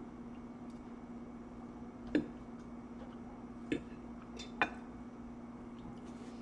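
Three short, sharp mouth clicks while chewing food, over a steady low hum.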